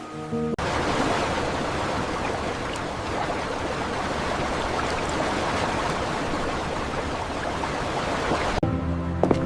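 Steady rushing water, an even hiss without pitch that starts about half a second in and cuts off suddenly near the end.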